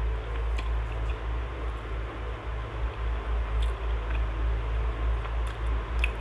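A person chewing a mouthful of fried catfish with the mouth closed, the sound rising and falling with each chew. A few faint clicks are scattered through it.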